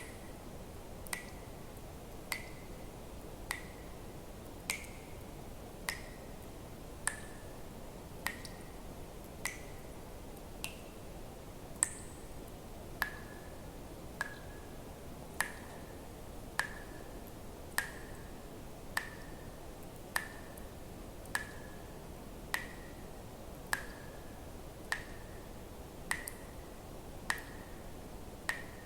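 Water drops falling one at a time at a steady pace, about one every 1.2 seconds, each a sharp plink with a brief ringing note, over a faint steady hiss.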